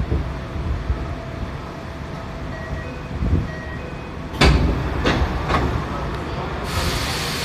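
Tokyo Metro 7000 series subway car heard from inside, with a low running rumble. About halfway through come three sharp knocks, about half a second apart. Near the end, compressed air starts to hiss.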